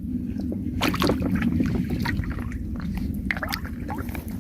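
Splashing and sloshing in shallow water, with scattered sharp splashes and clicks over a steady low rumble.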